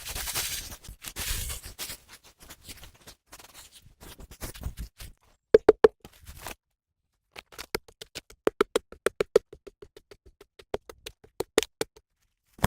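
Soft rustling, then after a short break a quick run of sharp knocks with a hollow ring, several a second, as of something hard tapping on wood.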